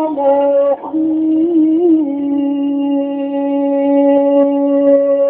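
A man's voice chanting Qur'anic recitation in the melodic mujawwad style, drawing out a syllable with ornamental turns and wavers. About two seconds in, it settles into one long, steady held note.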